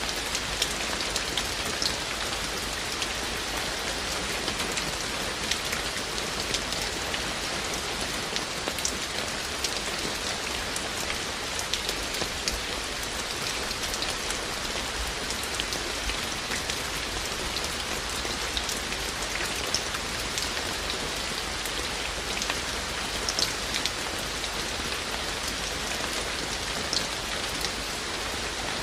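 Steady rain, a constant hiss with many separate drops ticking sharply close by.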